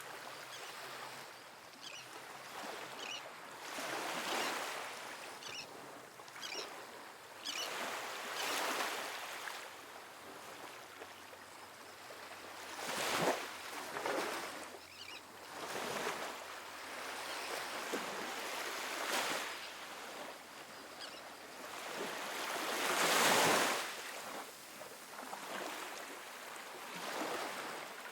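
Calm, small ocean waves breaking and washing onto a sandy beach. Each wash rises and falls as a soft rush every few seconds, and the strongest comes about two-thirds of the way through.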